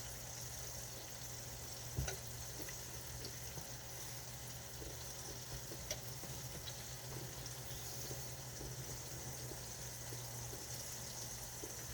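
Low, steady hiss of food cooking on the stovetop, pots bubbling and sizzling, with a couple of faint knocks about two and six seconds in.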